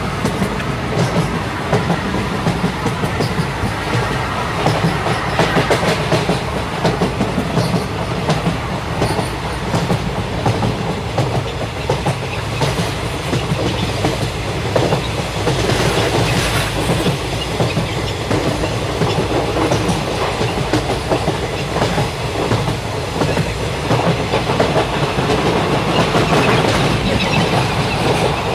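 A train running along the track: a steady rushing noise with rapid clicking of the wheels on the rails.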